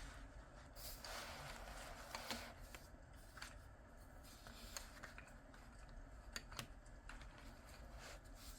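Coloured pencil scratching across paper in a short run of strokes, then a scatter of light, sharp clicks and taps. All of it is faint.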